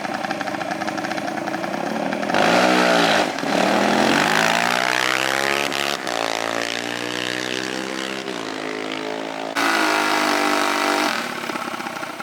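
Small off-road vehicle engine revving hard under acceleration, its pitch climbing and dropping. It gets loud about two seconds in and again near the end.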